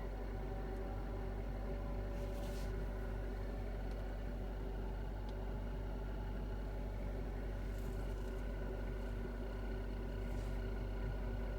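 Kia Ceed ED heater blower fan whistling and squeaking steadily, several steady tones over a low hum. This is the fault that shows up when the heater is switched on after the car has stood a long time in frost.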